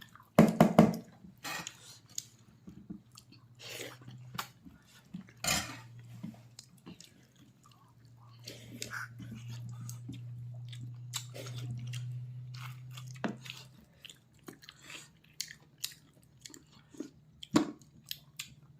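Close-up chewing and biting of pork leg: wet mouth clicks and crunches at an uneven pace, loudest about half a second in. A low steady hum runs underneath through the middle stretch.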